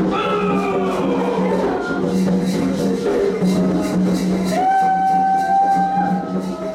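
Candomblé ritual music: voices singing over a steady rattling percussion beat, with one long held note in the second half.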